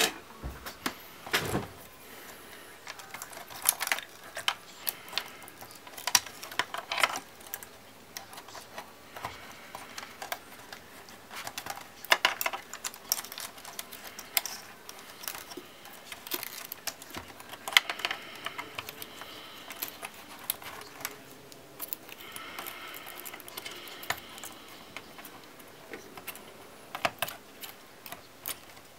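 Hands working on a laptop's parts: irregular sharp clicks and taps of small plastic and metal pieces being handled.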